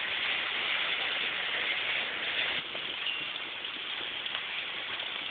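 Rain falling steadily during a hailstorm: a dense, even hiss that gets a little quieter about two and a half seconds in.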